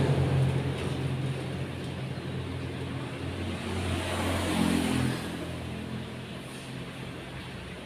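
A passing motor vehicle's low engine hum, fading steadily as it moves away.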